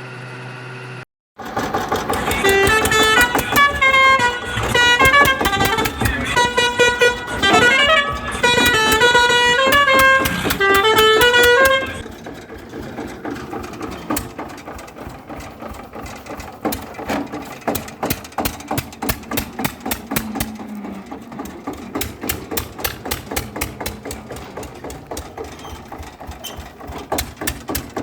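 A musical vehicle horn plays a loud stepping tune of several notes for about ten seconds, then stops. A small engine runs on with a quick, even beat.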